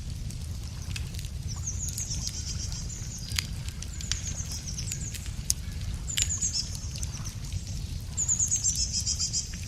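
Wood fire crackling with scattered sharp pops, while a small songbird sings a high, rapid trill over and over, its loudest phrase near the end. A steady low rumble runs underneath.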